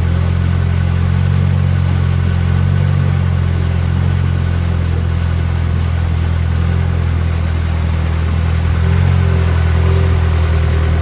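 A boat's engine running steadily, a low even drone that holds its pitch throughout.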